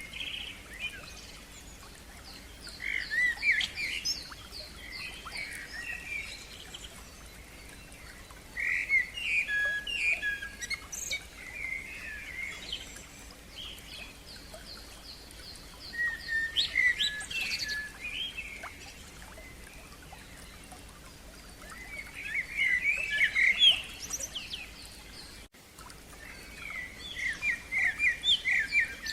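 A songbird singing in short phrases of rapid repeated and sliding notes, five phrases a few seconds apart with pauses between.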